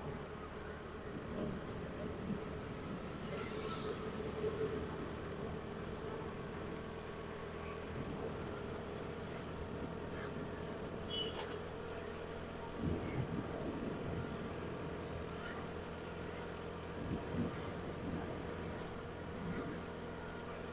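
Motorcycle engine running steadily while riding at a constant pace, a steady even drone.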